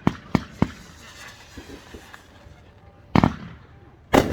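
Fireworks going off: three quick sharp bangs in the first second, then a louder boom about three seconds in and another just before the end.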